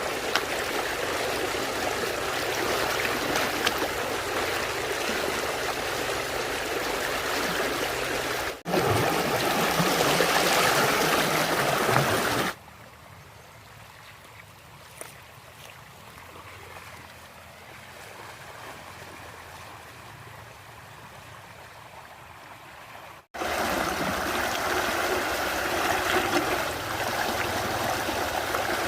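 Flowing stream water, a steady rushing and trickling, across several edited shots; it drops much quieter for about ten seconds near the middle, then comes back at full level.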